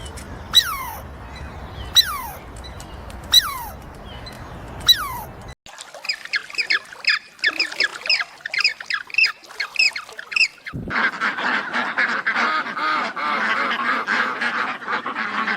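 Birds calling in three short clips. First come four sharp whistled calls about a second and a half apart, each falling steeply in pitch. Then comes a run of rapid high chirps, and from about eleven seconds in a dense, continuous chorus of many birds calling together.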